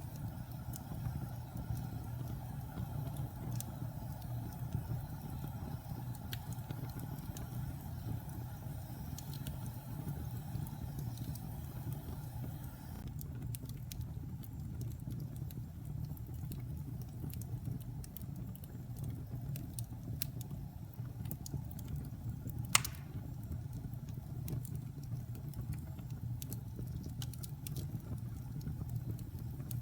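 Fire burning in a fireplace: a steady low rumble of flames with scattered small crackles, and one sharp, loud pop about three quarters of the way through.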